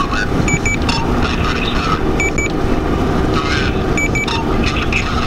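Steady rushing noise, from a vehicle or wind, with a high electronic double beep that repeats three times, about every two seconds.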